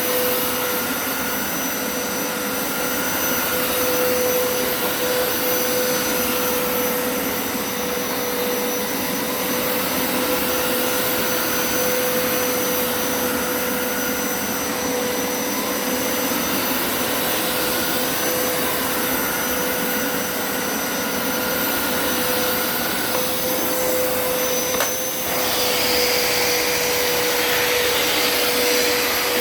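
Hoover Turbo Scrub carpet cleaner running steadily: a motor whine with one steady tone and a fainter higher tone that wavers up and down. About 25 s in it briefly dips, then turns hissier.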